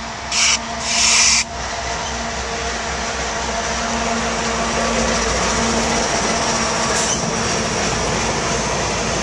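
Canadian Pacific Holiday Train passing: the diesel locomotive goes by and its string of lit freight cars follows, with a steady rumble of wheels on rail. Near the start come two short, loud bursts of hiss.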